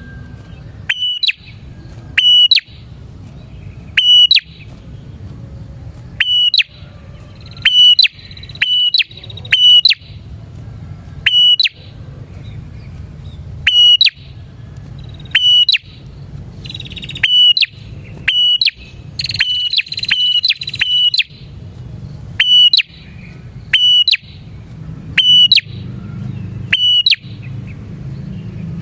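Prinia (prenjak) calling: loud, sharp chirps repeated every one to two seconds, with a busier run of calls just past the middle, over a low steady hum.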